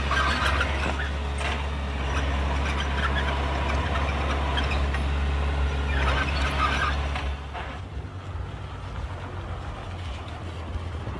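Heavy diesel engine of earthmoving machinery running steadily, with rattling and clanking over it. About seven seconds in the engine sound drops noticeably quieter.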